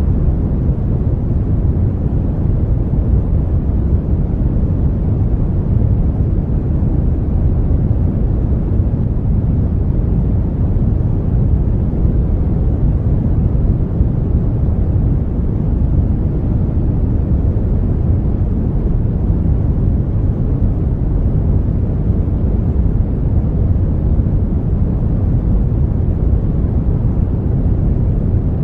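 Steady brown noise: a deep, even rushing hiss, strongest in the bass and falling away towards the treble, with no change throughout.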